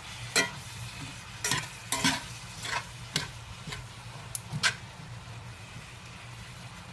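A utensil stirring spinach and collard greens in a cast iron pan, scraping and knocking against the pan in about seven irregular strokes. Beneath the strokes is a soft sizzle as the greens wilt in a little chicken broth.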